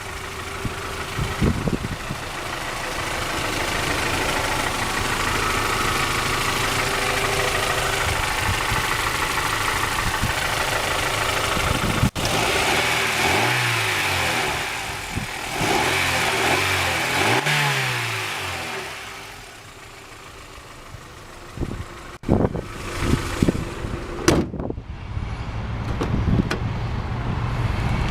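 1999 Honda Prelude's 2.2 liter DOHC VTEC four-cylinder running steadily in the open engine bay, then revved twice, each rev rising and falling in pitch, before settling back. A few sharp knocks follow near the end.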